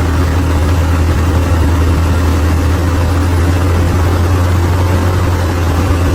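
Bulldozer's diesel engine running steadily with a deep, even drone and no clear changes in speed.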